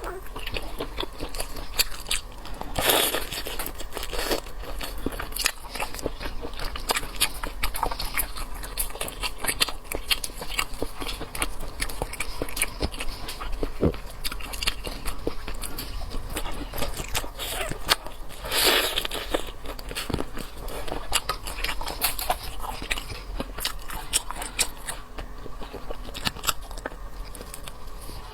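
Close-miked eating of seafood: steady biting and chewing with many small crunches and crackles, and two louder, longer bursts about 3 seconds in and near 19 seconds.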